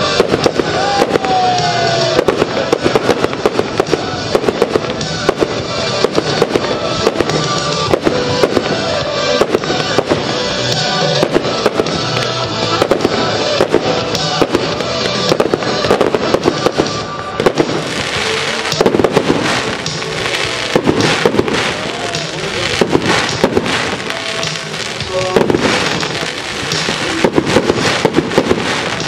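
Aerial fireworks shells bursting in rapid succession, many sharp bangs with crackle, over a music soundtrack.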